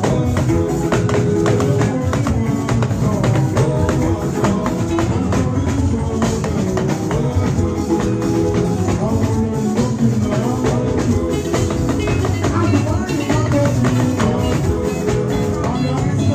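Yoruba party band music with a busy, steady percussion beat.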